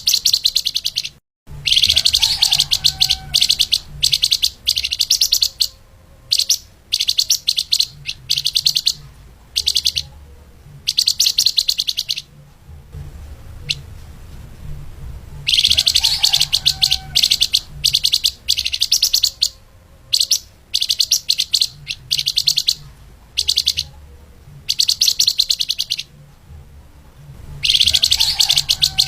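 Flamboyan (lemahan) songbird singing fast, tightly packed high chattering phrases, repeated in bursts of one to two seconds with short pauses, over a low background hum.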